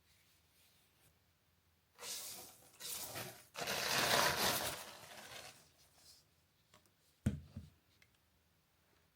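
A few seconds of rustling, tearing noise in several bursts, the longest and loudest in the middle, followed by a single thump.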